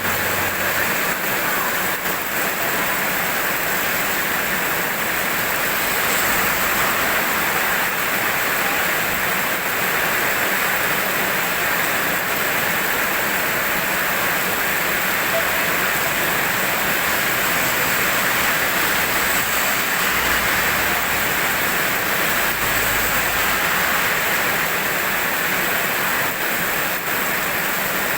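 Steady heavy rainfall, an even hiss of rain without breaks or thunder.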